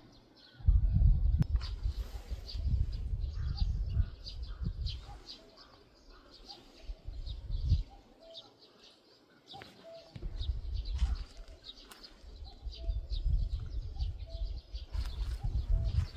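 Several small birds chirping and singing in quick, short notes, with a repeated lower note about once a second. Under the birdsong is a low rumble that comes and goes, fading out for a couple of seconds midway.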